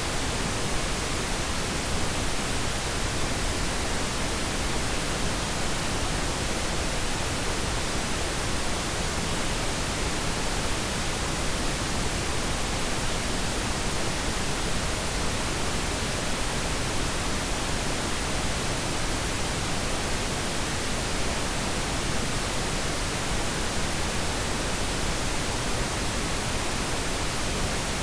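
Steady, unchanging pink noise: an even hiss spread across all pitches, softer in the highs than white noise.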